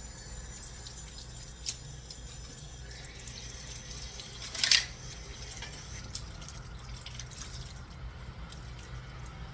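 Kitchen sink water: a brief splash of running water about halfway through, over a steady low hum, with a small click earlier.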